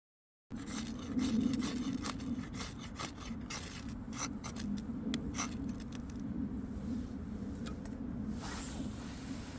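Rubbing and scraping with many short clicks and knocks, starting abruptly about half a second in, over a steady low hum; the clicks thin out after about four seconds.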